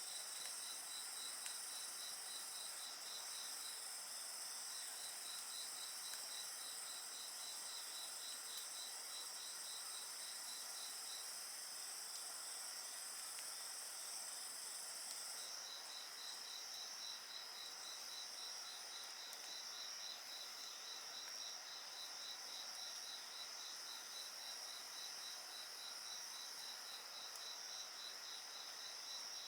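Chorus of singing insects such as crickets: one insect gives a fast, even run of pulsed chirps that breaks off twice, over a steady, higher-pitched trill from others.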